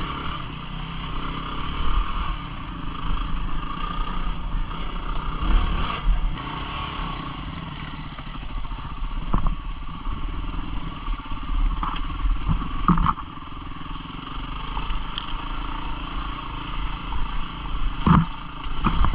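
Single-cylinder 250 cc dual-sport motorcycle engine running while riding a rough woods trail, with a few sharp knocks and clatters as the bike goes over the ground.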